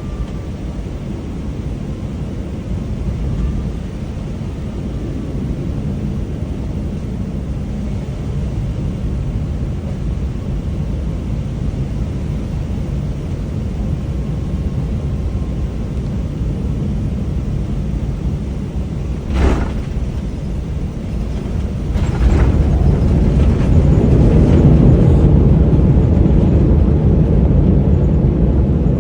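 Airbus A380-800 heard from inside the cabin on landing: a steady rumble, a sharp thud about two-thirds of the way through as the wheels touch down, then a louder, rougher rumble from about three seconds later as the aircraft rolls out and decelerates on the runway.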